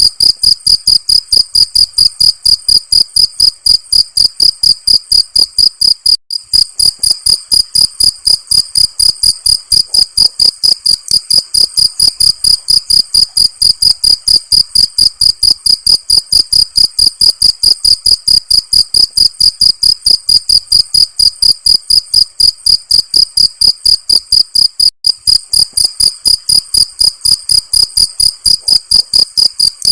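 Cricket chirping loudly in a fast, even rhythm of several short, high-pitched chirps a second, with two very brief breaks in the pulse train.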